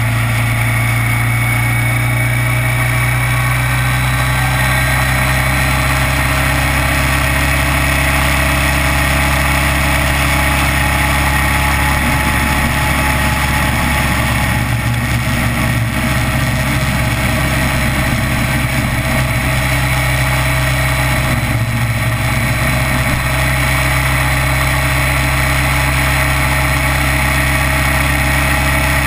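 Kawasaki Vulcan 900 LT motorcycle's V-twin engine running at a steady, unchanging pitch.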